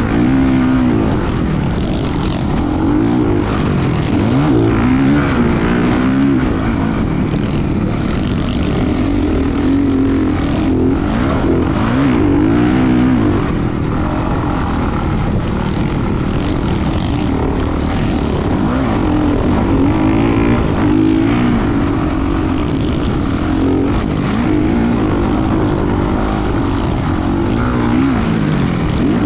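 Motocross bike engine running loud, its pitch rising and falling again and again as the throttle opens and closes.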